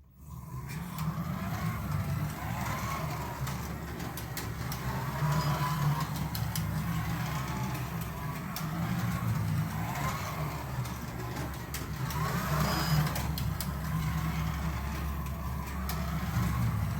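A 1:32-scale Carrera Digital slot car running laps on its track. The electric motor's whine rises and falls every two to three seconds as the car speeds up and backs off through the corners, over a steady low hum, with scattered sharp clicks.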